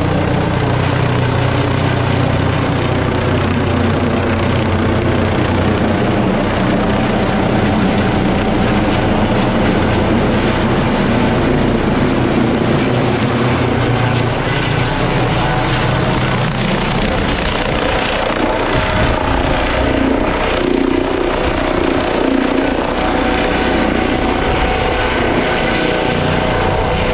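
Medical helicopter coming in to land, its rotors and turbine engine running loud and steady.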